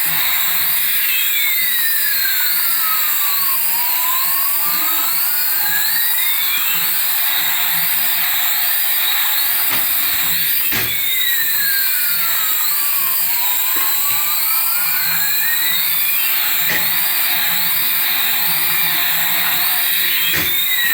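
Battery-powered toy's electronic sound effect: a steady warbling tone with a slow siren-like sweep that dips down and climbs back up about every ten seconds, over a constant whirring hiss, with a few faint knocks.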